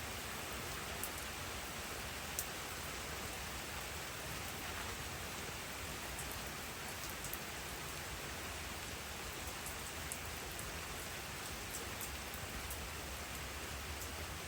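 Steady rainfall, an even hiss with occasional sharp ticks of drops striking a surface.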